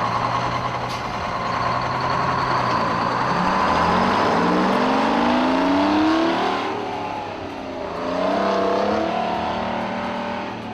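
A truck engine pulling away and accelerating, its pitch climbing, dropping as it shifts up a gear about seven seconds in, then climbing again.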